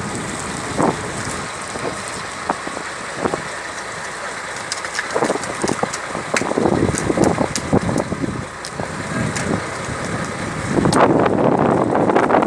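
Fishing boat's engine running under wind buffeting the microphone, with scattered knocks; it grows louder about eleven seconds in.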